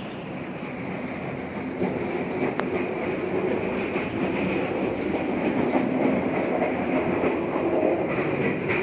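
Alaska Railroad passenger train running, heard from inside a dome passenger car: a steady rumble of the wheels on the rails that grows louder about two seconds in.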